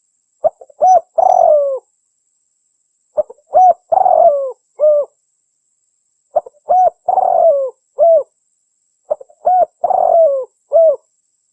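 Spotted dove (tekukur) singing its cooing phrase: a few short coos followed by a longer, falling coo, repeated four times about every three seconds.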